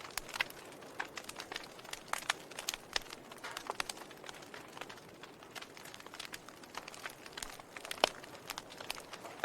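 Wood fire crackling in a fireplace: irregular sharp snaps and pops over a soft steady hiss, with one louder pop about eight seconds in.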